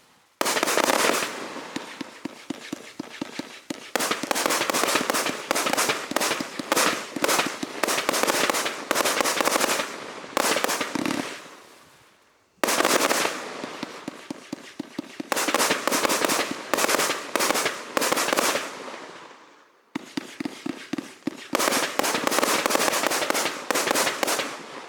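A 138-shot consumer fireworks cake firing rapid strings of shots, each launch followed by bursting and crackling. The shooting comes in three long runs, dying down briefly about twelve and twenty seconds in before starting again.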